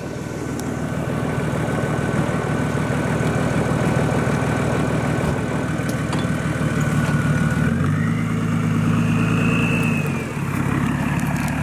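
Off-road 4x4's engine running, its revs rising about eight seconds in and easing off near the end, with a high whine that climbs in pitch as the revs go up.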